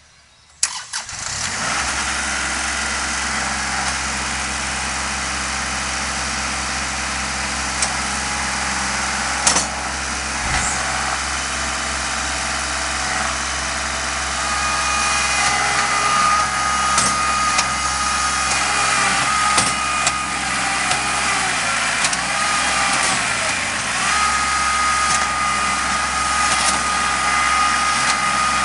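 Kubota L3301 tractor's three-cylinder diesel engine starting under a second in, then running steadily. From about halfway a high steady whine joins it, and the engine note dips and recovers a few times past the middle.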